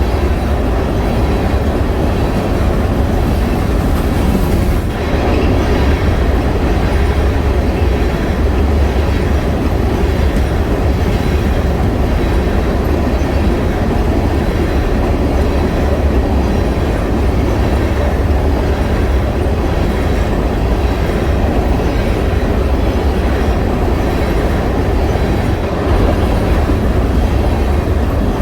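Freight train cars rolling past on the rails, a steady loud rumble of wheels on track.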